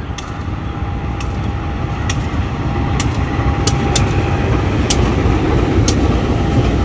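Diesel-electric locomotive and passenger coaches of a local train rolling slowly past, a low rumble growing louder, with sharp clacks of wheels crossing rail joints about once a second and a faint steady whine.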